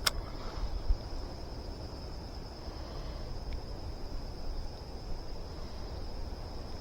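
Steady, high-pitched drone of insects, with a low rumble beneath it and a single click at the very start.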